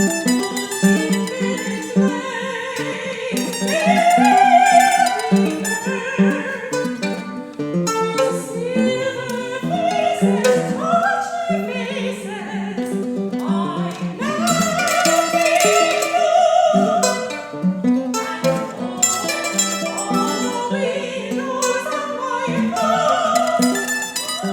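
Soprano singing in a classical style, holding wavering notes, over plucked mandolin and guitar.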